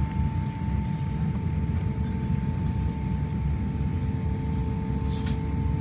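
Airbus A350-1000 cabin noise: a steady low rumble with a thin, even hum held at one pitch.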